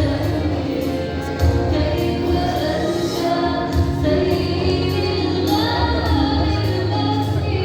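Music with several voices singing together, a choir-like sound over a steady bass.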